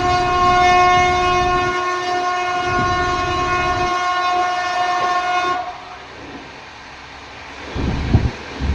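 Indian Railways locomotive horn sounding one long, steady blast of about five and a half seconds over the rumble of the train, then cutting off. It is followed by quieter low rumble and a few low thumps near the end.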